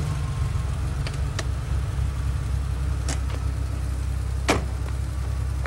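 Porsche 911's engine idling with a steady low rumble, with a few light clicks and one sharp knock about four and a half seconds in as the car door is shut.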